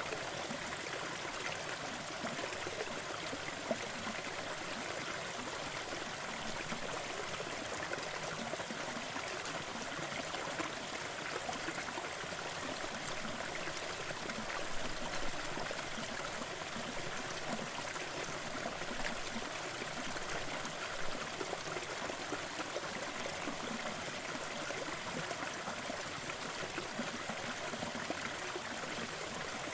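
Waterfall: a steady, even rush of falling and splashing water, with a few brief splashes standing out.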